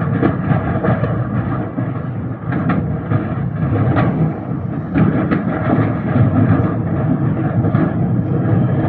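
A large house fire burning: a steady low rumble with scattered sharp cracks.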